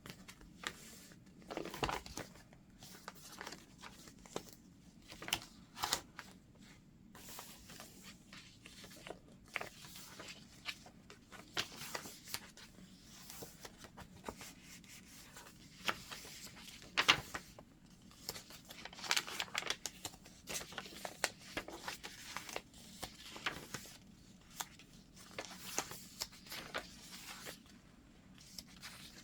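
Paper pages of a chunky handmade junk journal being turned and handled: scattered rustles, crinkles and soft page flips, with one louder crinkle a little past halfway.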